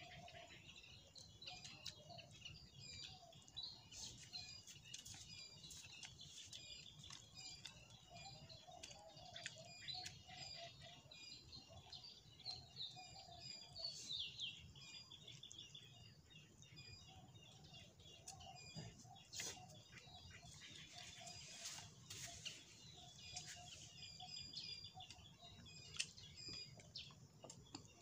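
Faint chorus of small birds chirping, with quick repeated high notes running on and a lower warbling call now and then.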